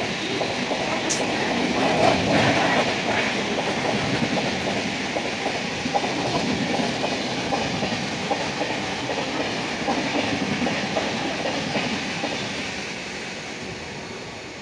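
A passing train: a dense rumble with the wheels clicking rapidly over the rail joints. It is loudest about two seconds in and fades toward the end as the train moves away.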